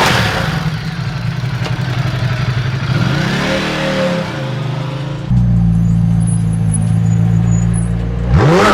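A motor vehicle's engine running, revving up and falling back about three seconds in. Just past five seconds the engine note changes abruptly and holds steady, then revs sharply upward near the end.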